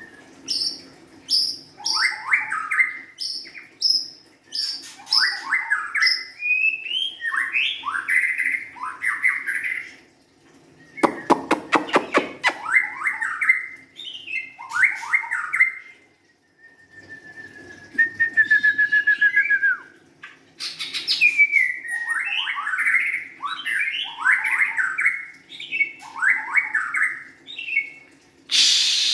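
White-rumped shama singing a long, varied run of loud whistled and sweeping phrases, with a rapid rattling trill about eleven seconds in and a fast buzzy trill about eighteen seconds in. A faint steady hum lies underneath.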